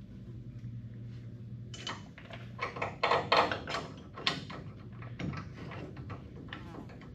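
Metal parts being handled at the front brake and hub: a quick run of clicks and clanks for a few seconds, loudest in the middle, over a steady low hum.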